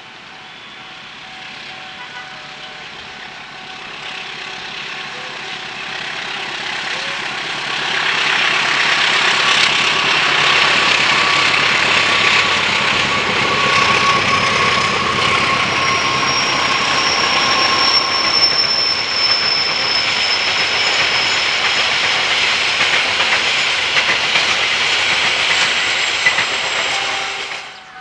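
A train approaching and passing close by: the rail noise builds for several seconds, then a loud, dense rumble and rattle of wheels on track goes on with a thin high whine over it, and cuts off suddenly near the end.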